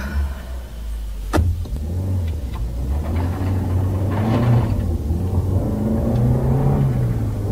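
Car engine running, its revs rising and falling, with one sharp click about a second and a half in.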